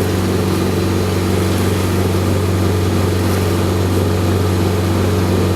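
A boat's motor running at a steady speed, a constant low drone with hiss from water and wind over it.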